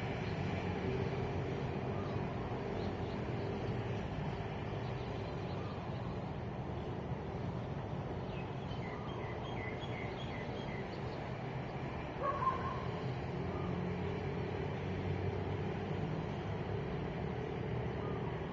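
Steady low hum of vehicle engines and traffic. Just before halfway a bird gives a quick run of about seven short high calls, followed a moment later by one brief, louder call.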